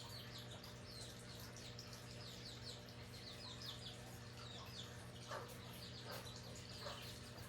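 Faint songbirds chirping, a quick series of short, high, falling notes repeated over and over, over a steady low electrical hum.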